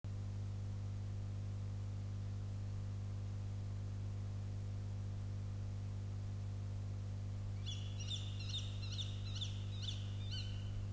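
Tawny owl giving a quick series of about seven short, sharp calls starting about three-quarters of the way in, over a steady electrical hum.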